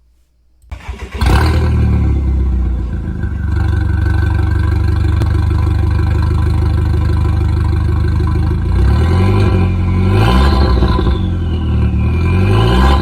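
Volkswagen/Audi 1.8 20-valve turbo four-cylinder engine (EA113) cranking and catching about a second in, then idling steadily. Over the last few seconds it is blipped several times, its pitch rising and falling with each rev.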